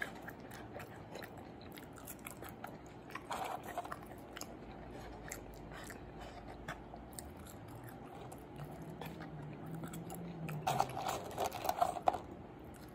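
A person chewing fast food close to the microphone: soft crunches and wet mouth clicks, with louder bursts of chewing about three and a half seconds in and again near the end.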